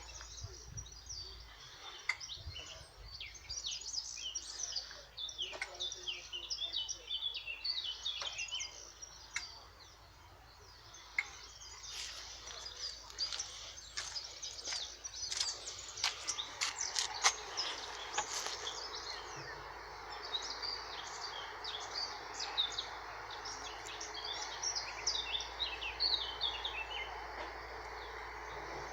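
Small birds chirping and singing. A run of sharp clicks comes in the middle, and a steady hiss sets in a little past halfway.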